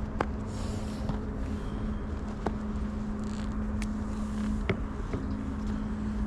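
Steady low rumble with a constant hum, broken by a few faint sharp clicks.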